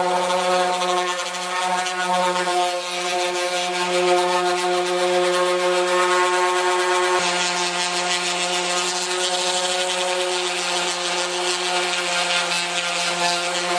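Power sander running steadily against the car door's painted steel panel, sanding the paint down toward bare metal, with a constant motor hum under the rasp of abrasive on paint.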